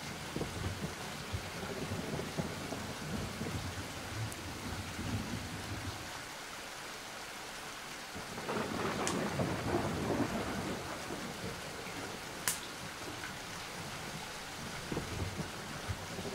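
Steady rain with low rumbling thunder. A louder roll of thunder swells about eight seconds in and fades over a few seconds, and a single sharp crack comes a little later.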